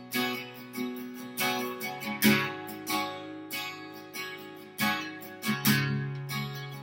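Acoustic guitar strummed in a slow pattern, chords ringing between strokes, playing the instrumental gap of a worship song.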